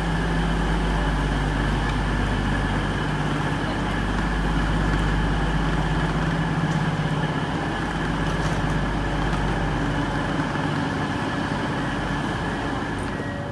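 Diesel engines of a Class 222 Meridian diesel multiple unit running with a steady drone and hum.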